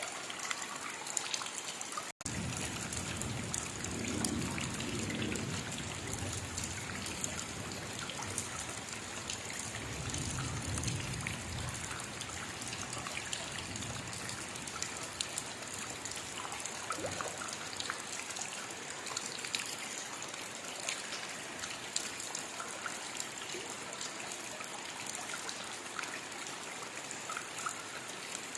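Steady rainfall with individual drops ticking. The sound cuts out for an instant about two seconds in. Low swells come in around four seconds and again around ten seconds.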